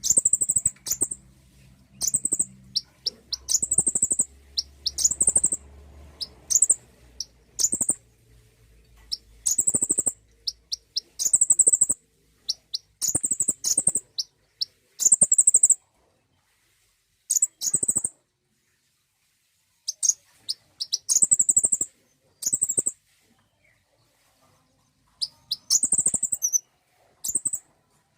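Konin sunbird singing: bursts of high, thin chirps and fast trills, repeated with short pauses.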